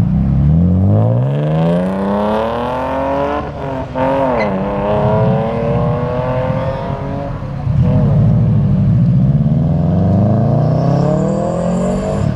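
Car engines accelerating hard. One engine revs up steadily, breaks off for a gear change about three and a half seconds in, picks up and then eases off; a second engine revs up from about eight seconds in.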